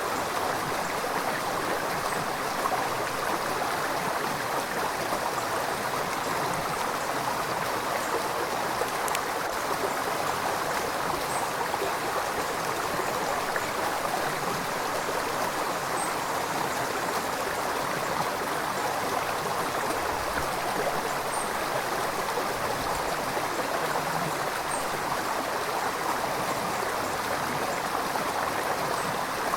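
River water flowing and gurgling steadily over rocks, an even rushing with faint splashes.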